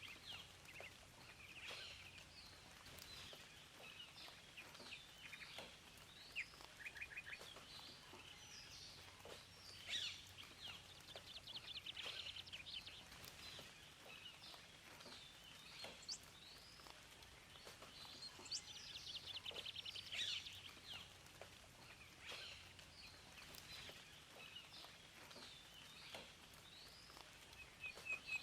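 Several songbirds chirping and singing, faint, with short whistled notes and a couple of fast trills, over a soft steady background hiss.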